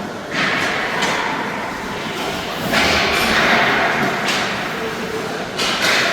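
Youth ice hockey play in an arena: three swishing scrapes of skates on the ice, the loudest about halfway through, over the hollow din of the rink, with dull thuds of stick, puck or boards.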